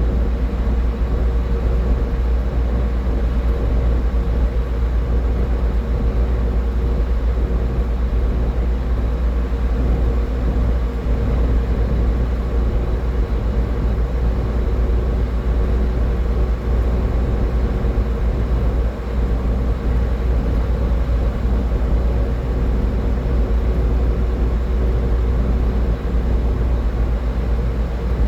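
Steady road and engine noise of a car driving at highway speed: a deep, constant rumble with a faint steady hum above it.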